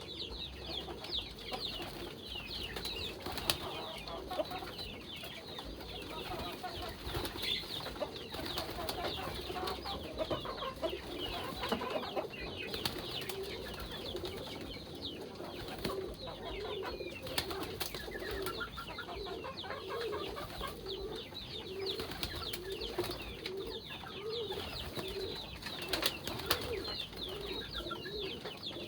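A flock of domestic pigeons cooing, with a repeating low coo that is steadiest in the second half, many short high chirps and some wing flapping.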